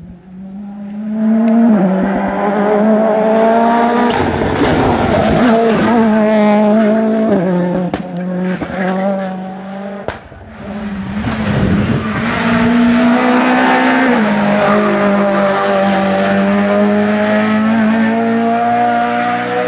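Rally car engine revving hard at high load through a special stage, its pitch stepping with gear changes, with tyre squeal. The sound drops briefly about halfway, then builds again as engine noise returns.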